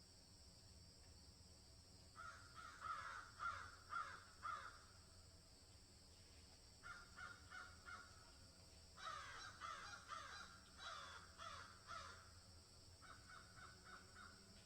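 Birds calling in four bursts of quick repeated notes, over a steady high hiss.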